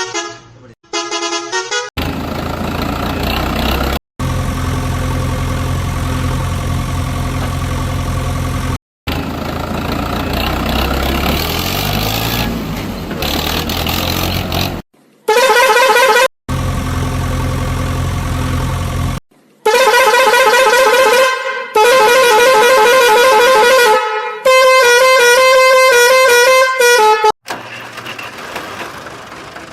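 A string of abruptly cut vehicle sound effects: a steady engine running that rises in pitch partway through, then several loud horn blasts, some warbling like a melodic horn, and an engine idling near the end.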